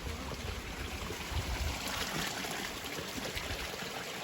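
Small stream of clean water running and trickling steadily. A low rumble joins it, loudest about a second and a half in.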